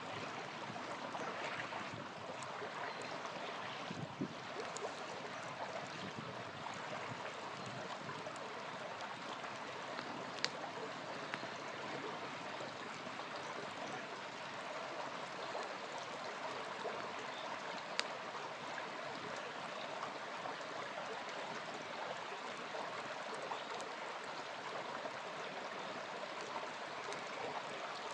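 Small river flowing steadily, a continuous rush of water, with a campfire giving a few sharp pops now and then.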